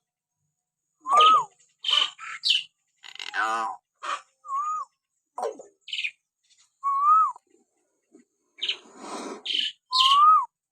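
Hill myna giving a string of short calls with brief silences between them: clear whistles that rise and fall, mixed with harsher rasping calls.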